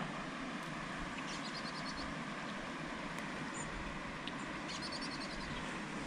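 Steady outdoor background noise, with a small bird giving a quick run of high, rapid chirps twice, about a second and a half in and again about five seconds in, and a single short high note between them.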